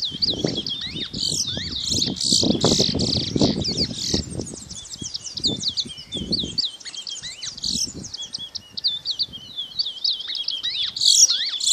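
Many small birds chirping at once: a dense, continuous chorus of short, high, overlapping chirps and twitters. A low, uneven rumbling noise runs under it for the first half or so, then drops away.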